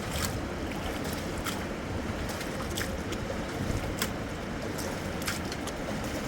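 Fast-flowing river water rushing steadily, with a handful of sharp ticks scattered through it.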